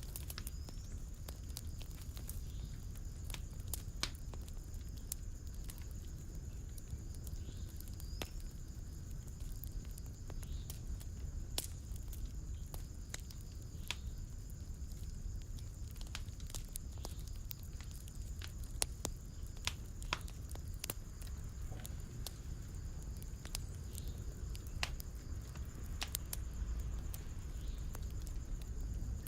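Fireplace fire crackling: irregular sharp pops and snaps over the low, steady rumble of the flames.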